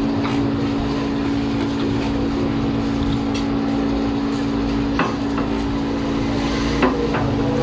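Steady low hum from a running machine, with two sharp clicks a little under two seconds apart near the end.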